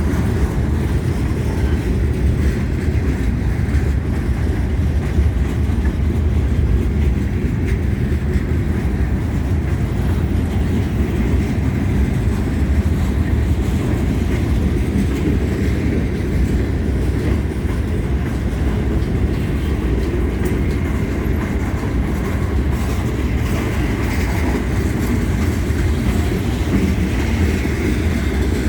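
Cars of a CSX freight train rolling past at close range: a steady, loud noise of steel wheels running over the rails, heaviest in the low range.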